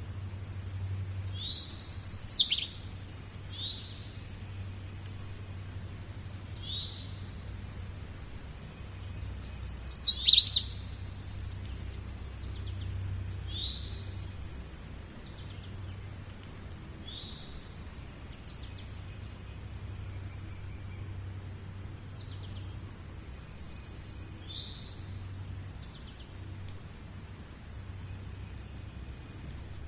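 Birds singing: one bird gives a loud, fast run of notes falling in pitch, twice, about eight seconds apart, among scattered softer chirps. A low steady hum runs underneath.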